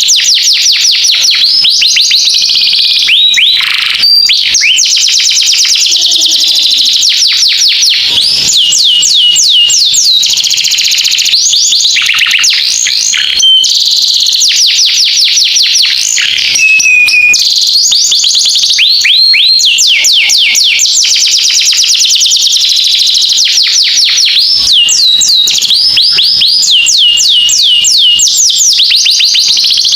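Oriental magpie-robin (kacer) singing a loud, almost unbroken song of fast trills: rapid series of quick downward-sweeping whistles with brief pauses between phrases, in the canary-like style the bird has been taught.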